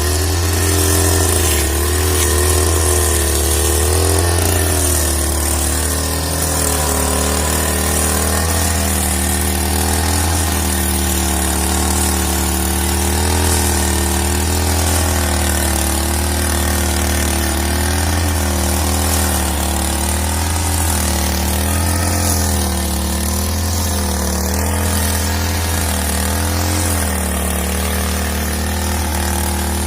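Gasoline brushcutter (string trimmer) running with a nylon cutting line through small weeds. Its engine note dips and recovers over and over as the line meets the grass.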